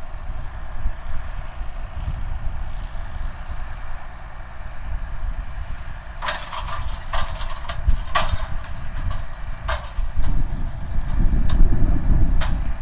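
Case IH Magnum 305 tractor's diesel engine running with a steady low rumble, growing louder near the end. From about six seconds in, a run of sharp metallic clanks and clicks sounds over it for a few seconds.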